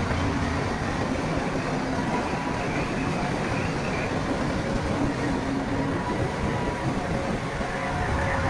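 Crawler bulldozer working, its diesel engine running steadily under the clatter of its steel tracks.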